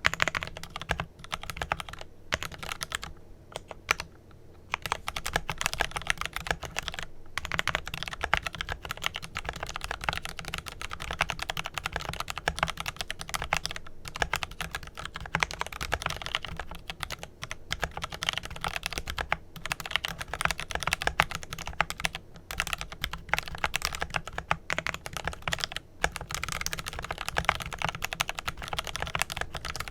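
Fast typing on a Glorious GMMK Pro mechanical keyboard with lubed Kailh Pro Purple tactile switches, PBT keycaps and added PE foam dampening: a steady stream of key clacks, with a brief pause about three seconds in.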